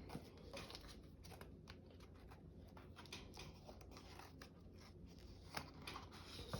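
Faint scattered clicks and light rustling of paper being handled during paper crafting, with one slightly louder click near the end.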